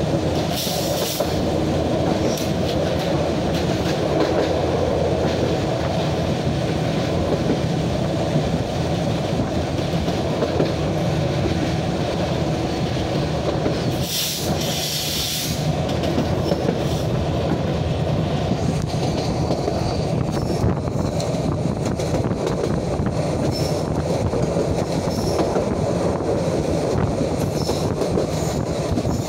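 Passenger train running at speed, heard from on board: a steady rumble of wheels on the rails. A short burst of hiss comes about halfway through.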